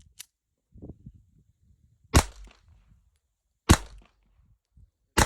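Ruger LCP II .22 LR pocket pistol firing CCI Stinger rounds: two sharp shots about a second and a half apart, with a third just at the end. A small click comes shortly after the start.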